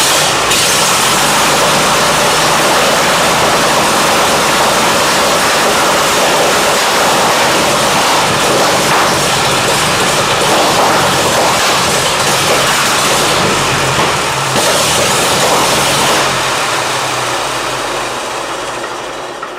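1923 Seagrave 1000-cubic-inch six-cylinder engine running loud and steady, then running bad and fading away over the last few seconds as it starves for fuel: a leaking carburetor has probably emptied the float bowl.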